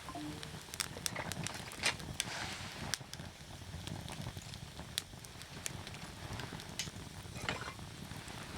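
Wood fire crackling, with irregular sharp pops and snaps of burning firewood over a low steady rush of flame.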